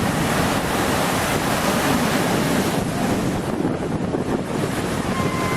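Storm waves surging in and rushing water, with strong wind buffeting the microphone.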